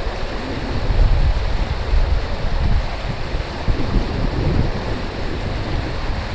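Pond overflow waterfall rushing steadily, swollen by days of heavy rain, with wind buffeting the microphone in gusts.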